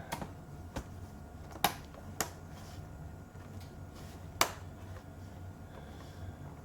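About five sharp, separate clicks and taps of hard plastic laptop parts being handled and fitted during reassembly, with the loudest about four seconds in.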